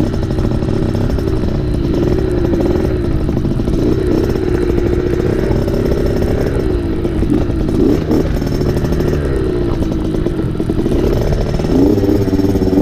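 Dirt bike engine running while riding a trail, its pitch rising and falling as the throttle is opened and closed, with a climb in revs near the end.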